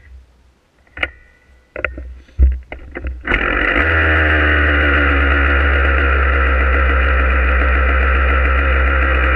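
Yamaha YZ125 two-stroke single-cylinder dirt bike engine being kick-started: a few knocks and a heavy thump, then the engine catches about three seconds in and runs steadily.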